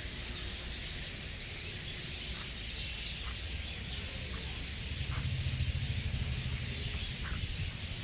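Open-air ambience of an aviary with a few faint, short bird chirps scattered through it, over a low rumble that swells about five seconds in.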